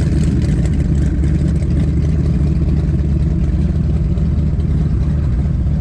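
Twin big-block V8 engines of an Avanti 33 powerboat idling steadily while warming up.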